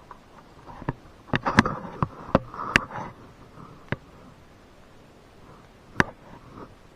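A run of sharp knocks and clicks, hard objects striking, about eight of them bunched together in the first half and one more near the end.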